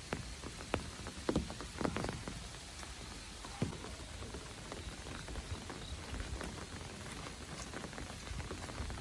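Steady rain falling, with a hiss of rain and many separate drops splashing close by. A handful of louder drops land in the first few seconds.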